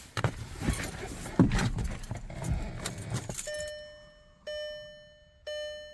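Keys jangling and clicking for about three seconds, then the VW Jetta's warning chime starts dinging, about once a second.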